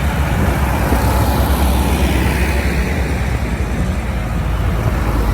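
Tractor engines running steadily with a deep, low rumble.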